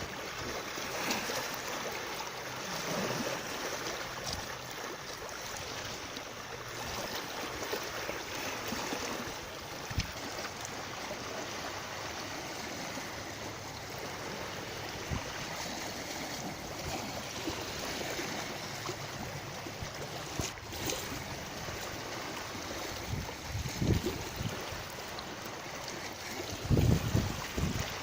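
Steady rush of running water, with a few low thuds near the end.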